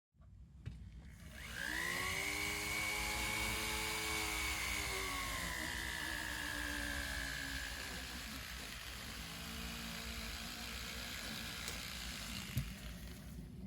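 Flex shaft rotary tool polishing a metal harp: its motor spins up with a high whine about a second and a half in, then the pitch sags slowly and drops lower about eight seconds in as it bears on the work.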